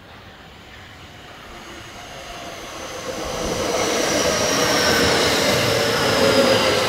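A train approaching along the station track, growing louder over about four seconds and then running loud and steady, with a high whine that slowly falls in pitch.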